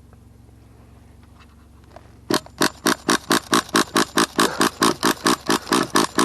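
HPI 4.1 nitro engine being cranked over while trying to start. About two seconds in, a loud, even series of sharp pulses begins, about three or four a second, and the engine does not yet catch.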